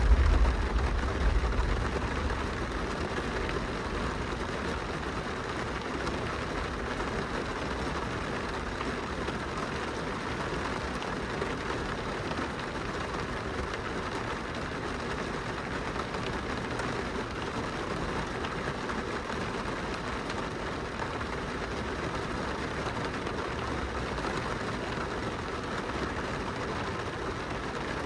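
Steady rain pattering on a glass window, an even wash of drops. A low rumble at the start fades away over the first couple of seconds.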